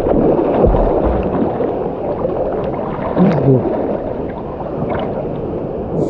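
Loud rushing and gurgling water, heard muffled with little treble, with a few low knocks near the start.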